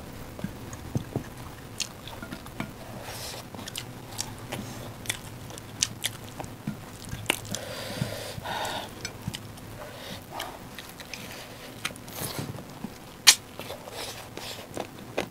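Close-up mukbang eating sounds: two people chewing rice and chicken gravy eaten by hand, with wet mouth noises and scattered short sharp clicks, one louder near the end.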